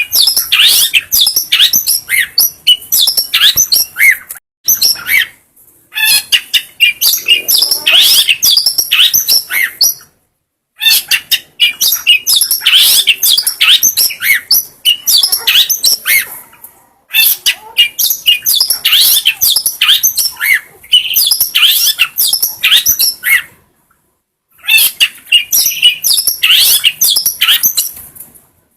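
Long-tailed shrike (cendet) singing: fast runs of sharp, high chirps and trills in phrases of several seconds, broken by short pauses about every six seconds.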